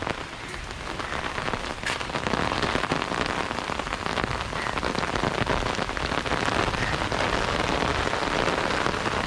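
Heavy rain falling, a steady dense patter of drops on surfaces.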